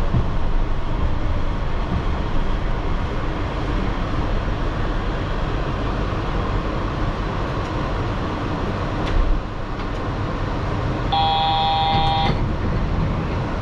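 Running noise of a Yurikamome rubber-tyred automated guideway train, a steady low rumble as it pulls into a station and comes to a stop. Near the end a short electronic beep sounds for about a second.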